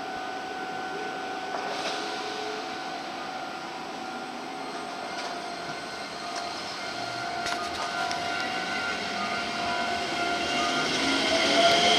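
Electric commuter train running with a steady hum and rail noise; near the end a motor whine starts rising in pitch as the sound grows louder, the train accelerating.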